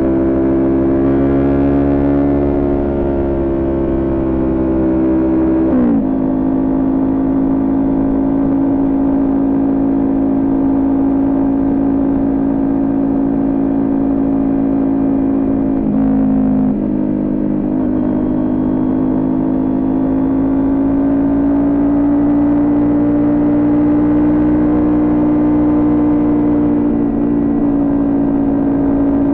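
Kawasaki Ninja 400 parallel-twin with a Coffman exhaust, running at steady cruising revs. Its pitch drops sharply at gear changes about six seconds in and again around sixteen seconds in, then rises slowly as the bike gathers speed.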